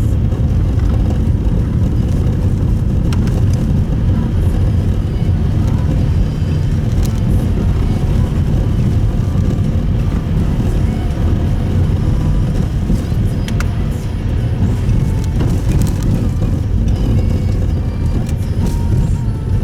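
Steady road and engine rumble inside the cabin of a Subaru Impreza Sport driving along a snowy road, with a few faint clicks.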